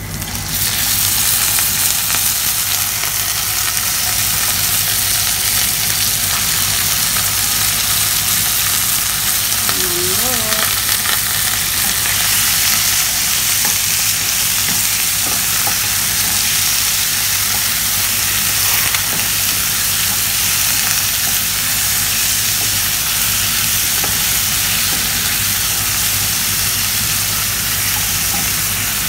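Raw chicken pieces frying in hot oil with sautéed onion, garlic and ginger. The sizzle jumps to a loud, steady hiss about half a second in as the chicken goes into the pan, with a spatula stirring through it.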